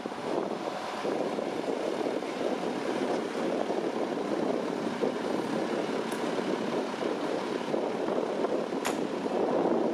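Steady rumble of vehicle and street traffic with no siren sweep, and a sharp click about nine seconds in.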